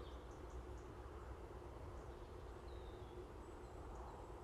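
Faint, scattered bird chirps over a steady low rumble of outdoor ambience.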